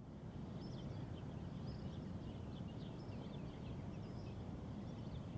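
Faint outdoor dusk ambience: small birds chirping over a low, steady background rumble.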